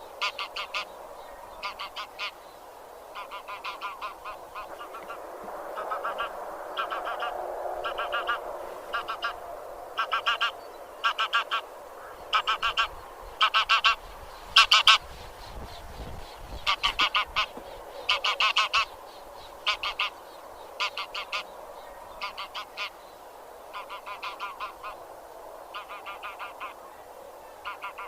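A flock of grey geese honking, many short calls in quick clusters that overlap, over a steady murmur of more distant birds.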